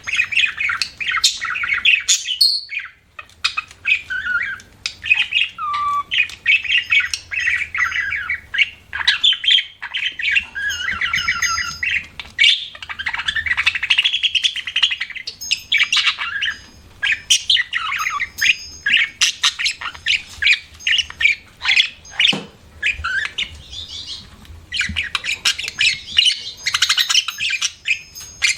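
Budgerigar chirping and warbling in a near-continuous stream of quick, changing chirps and rapid trills, with only brief pauses.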